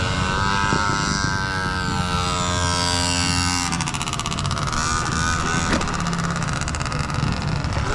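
Dirt bike engine running, its pitch slowly rising and falling, then settling into a fast, even buzz after about three and a half seconds.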